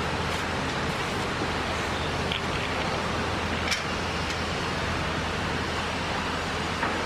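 Freight elevator ascending: its machinery runs with a steady low hum under an even rushing noise, and a faint click comes about three and a half seconds in.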